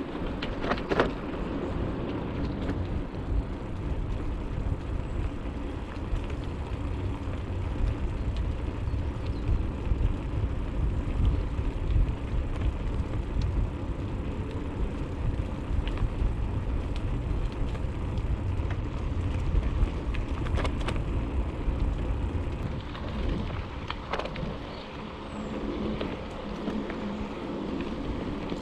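Riding a bicycle: wind rumbling on the microphone over the hiss of tyres rolling on the trail, with scattered small clicks and rattles.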